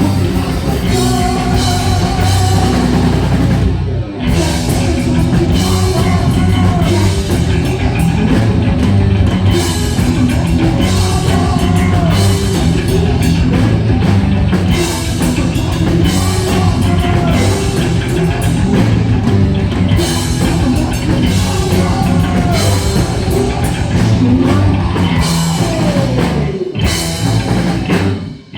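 Heavy metal band playing live, loud and dense, with a drum kit and what sounds like singing, and short breaks in the music about four seconds in and near the end.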